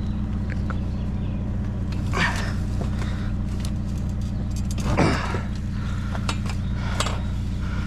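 Truck engine idling steadily, with a few brief scrapes and clicks over it.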